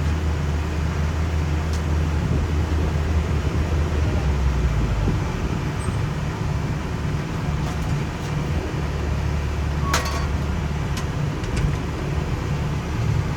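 Heavy asphalt-paving equipment engines running steadily with a low drone, with a few light ticks and one sharp metallic clank about ten seconds in.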